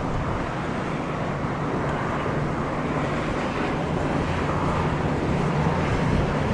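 Aircraft engines running steadily on approach in strong gusty wind, a low rumble that grows a little louder near the end.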